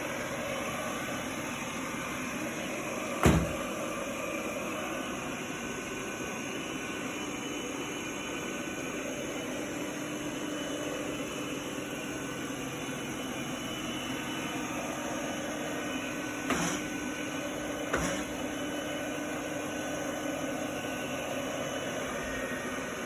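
Samsung POWERbot SR10M7010UB robot vacuum running steadily with a faint hum. A sharp knock comes about three seconds in, and two smaller knocks follow near the end as the robot bumps against the coffee table legs.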